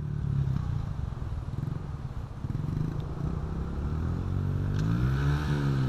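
Honda CRF70 dirt bike's small four-stroke single-cylinder engine running at a low steady idle, then revved with the throttle about four and a half seconds in, its pitch rising and dipping again.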